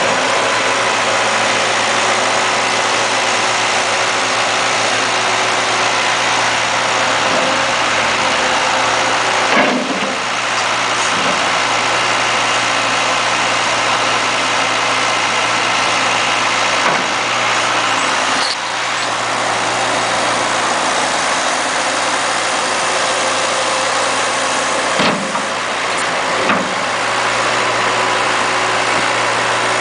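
The Perkins turbo diesel engine of a 2003 Gehl 7810 skid steer running steadily, with a few brief dips and bumps in level about ten, eighteen and twenty-five seconds in.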